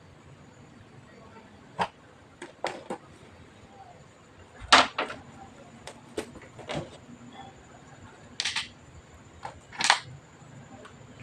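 Irregular clicks and knocks of hands working on the all-in-one PC's plastic and metal parts: about ten sharp taps, the loudest double knock about halfway through.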